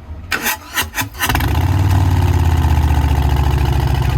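Harley-Davidson Milwaukee-Eight 114 V-twin being cranked, with a few short bursts before it catches a little over a second in. It then settles into a loud, steady idle through the Big Radius exhaust.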